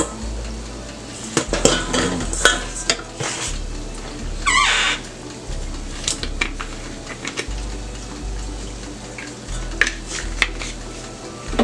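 Kitchen utensil clinking, knocking and scraping against a cooking pot in irregular strokes, with one longer scrape about four and a half seconds in.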